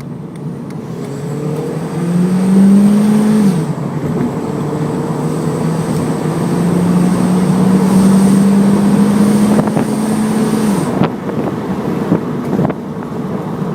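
Car exhaust fitted with a bolt-on turbo-sound muffler whistle, accelerating: the engine note rises slowly with a thin high whistle over it. Both drop away suddenly twice, when the throttle is lifted.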